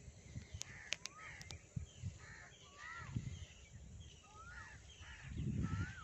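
A bird calling repeatedly: about five short arching calls, roughly one a second, with a low rumble near the end.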